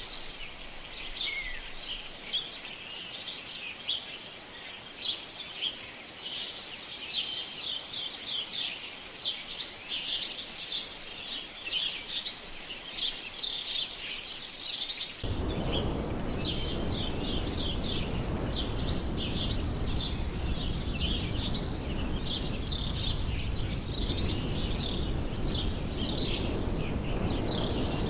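Rainforest ambience: many birds chirping and calling in quick short notes over a steady high insect buzz. About halfway through the sound changes suddenly, the buzz gone and a steady low rushing noise under the bird calls.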